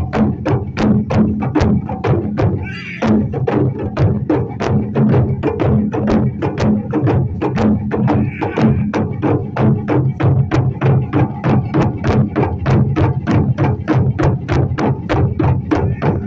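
Japanese taiko drums playing a driving rhythm: deep drum beats under a sharp, even clicking strike about four times a second. A voice calls out briefly about three seconds in and again around eight seconds in.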